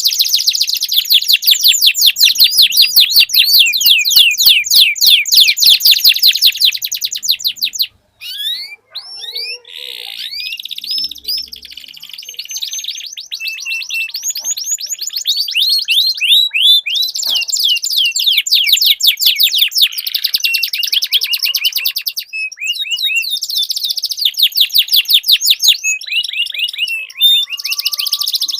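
Domestic canaries singing long rolling trills, fast runs of the same note repeated many times a second. A brief break about eight seconds in, then the song goes on with more varied phrases and further rolls.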